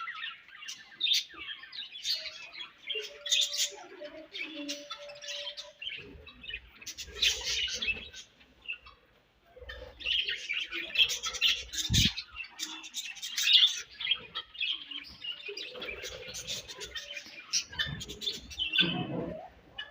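Budgerigars chirping and warbling in quick, overlapping calls, with a short lull a little under halfway through. A single low knock sounds about twelve seconds in.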